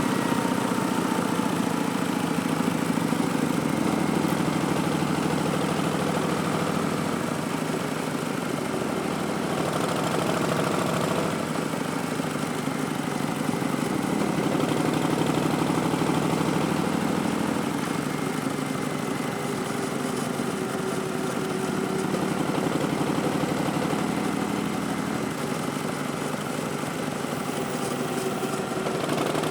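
Harley-Davidson Street Bob's Milwaukee-Eight 107 V-twin running under way through Vance & Hines Twin Slash slip-on exhaust, its engine speed rising and easing gently without hard revving.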